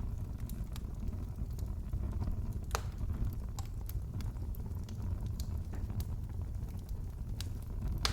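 Wood fire crackling in a fireplace: scattered small pops over a steady low rumble, with one sharper pop a little under three seconds in.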